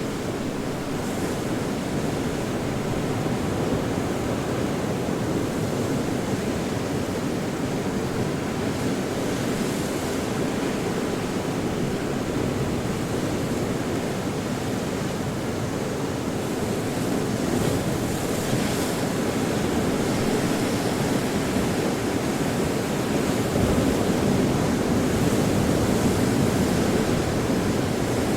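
Ocean surf: a steady wash of breaking waves, swelling a little louder in the second half.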